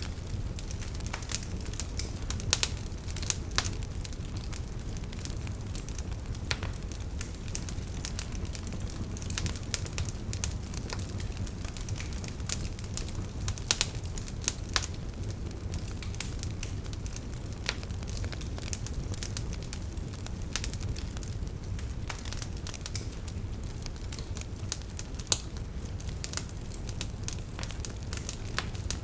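Wood campfire burning: a steady low rumble of flames with irregular sharp crackles and pops from the firewood, a few louder pops scattered through.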